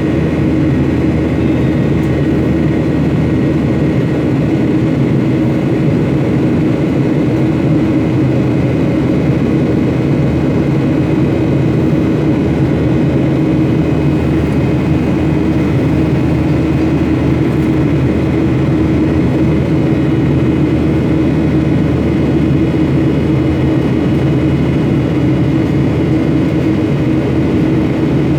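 Steady drone of a passenger airliner in flight heard from inside the cabin: engine and airflow noise with a constant hum and a few steady tones, unchanging throughout.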